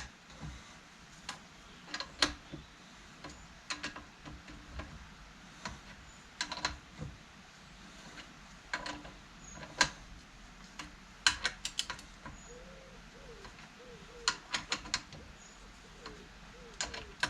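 Hand tools working the bolts of a tractor hydraulic pump as they are tightened in a diagonal pattern: scattered sharp ratchet-like clicks and metal taps, singly and in short quick runs.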